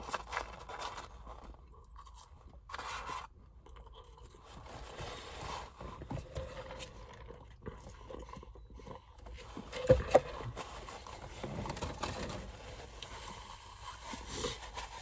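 A person chewing and eating French fries, with scattered soft scraping and rustling sounds and one sharp knock about ten seconds in.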